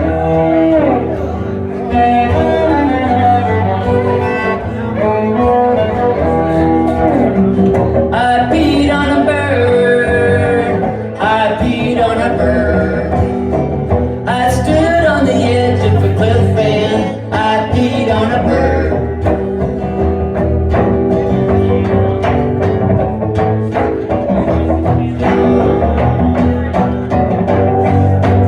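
Live music with no words: a cello played with the bow and a strummed guitar, with sustained and sliding notes.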